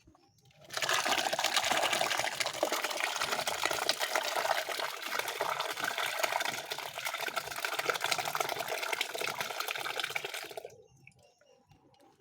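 Water pouring or running steadily for about ten seconds, starting and stopping abruptly.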